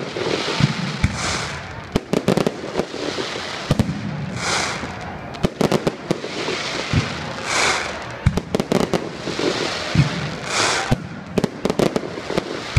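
Fireworks display: many sharp bangs in quick, irregular succession as shells burst, with a patch of hissing crackle about every three seconds.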